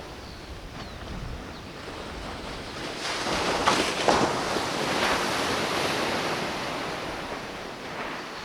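Surf on the beach: a wave swells about three seconds in, breaks with a couple of sharper crashes, and washes out slowly over the following seconds, with wind buffeting the microphone.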